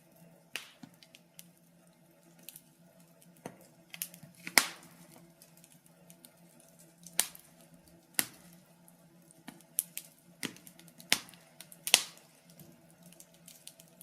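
Wood fire in a fireplace crackling, with irregular sharp pops, the loudest about four and a half seconds in and near twelve seconds in.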